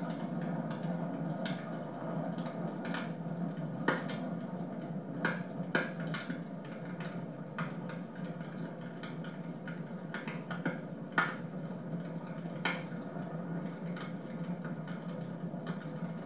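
Wood fire burning in a home fireplace: a steady low rush of the flames with irregular sharp crackles and pops from the burning logs.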